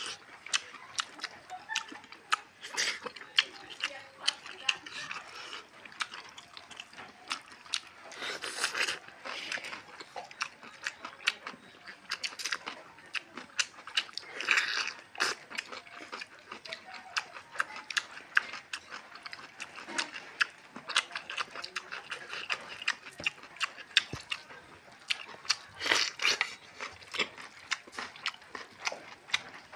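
Close-up eating sounds from people eating rice and curry with their hands: a dense run of wet chewing, lip smacks and finger clicks, with a few louder crunchy bites of raw cucumber.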